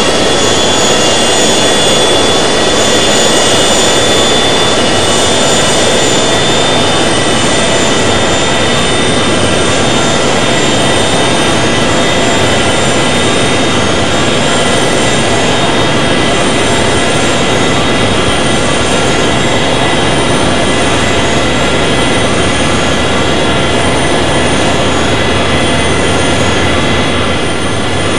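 Airbus A380's four turbofan jet engines running loud and steady, a dense rush with several high, steady whining tones over it, heard from inside the cabin.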